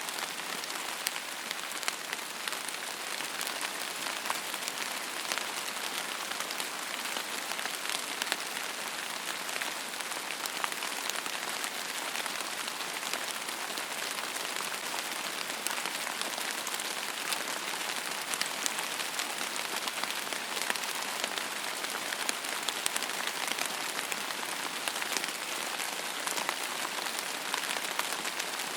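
Steady rain falling onto a surface, an even hiss with many small sharp drop ticks through it.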